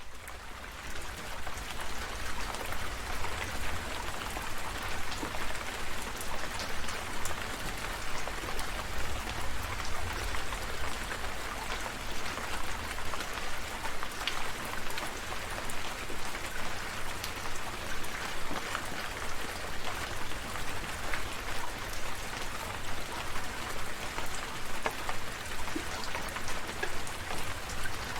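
Steady rain falling, with many separate drops ticking sharply over the even hiss and a steady low rumble underneath. It rises in from silence at the very start.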